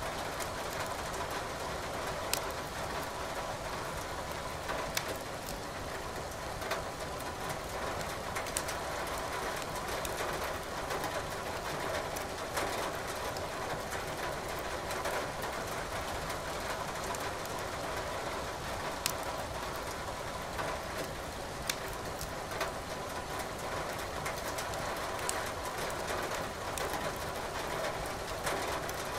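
Steady rain hiss with a wood fire in a fireplace crackling over it, sharp pops coming every few seconds.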